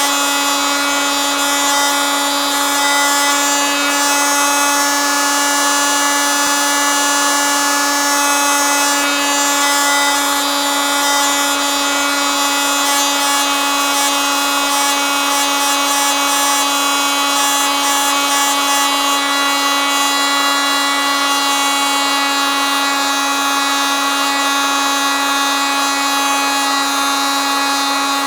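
Oscillating multitool running steadily: an even, high-pitched buzz with a strong, unchanging tone and many overtones.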